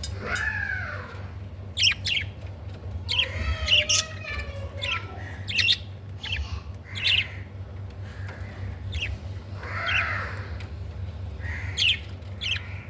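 Budgerigars chirping and chattering: a run of short sharp chirps mixed with arching, warbling calls, over a steady low hum.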